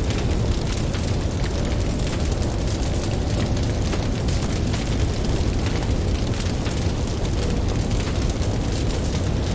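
Campfire crackling, with many small sharp pops, over a steady low rumble of ocean waves.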